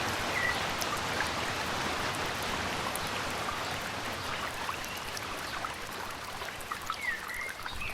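Steady rain falling, an even hiss that slowly eases off as the storm passes.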